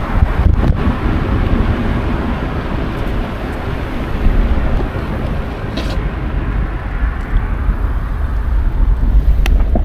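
Steady low rumble of wind on an action camera's microphone while cycling, mixed with street and traffic noise. A sharp click sounds near the end.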